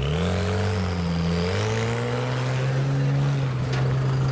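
A lowered widebody Porsche 911 accelerating away, its engine pitch rising over the first second and a half. After that, a flatbed tow truck's engine runs steadily as the truck drives past close by.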